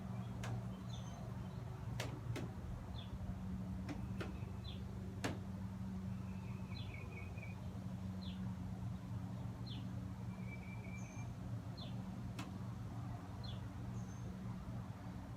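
A small bird gives short high chirps about once a second, with a couple of brief trills, over a steady low hum and a few scattered clicks.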